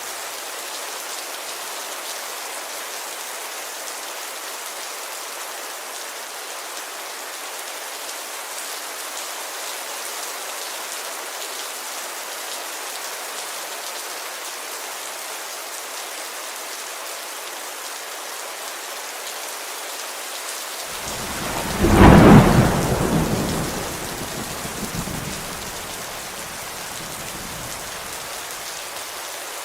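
Steady heavy rain pattering on a window. About two-thirds of the way through, a clap of thunder breaks in and rumbles for a few seconds before fading back into the rain.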